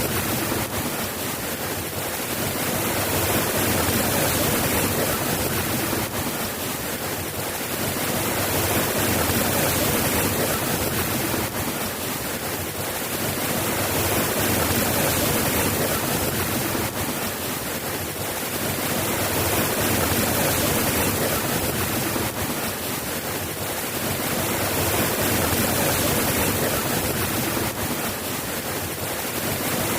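Steady soft rain falling, an even hiss of drops that swells gently in loudness about every five to six seconds.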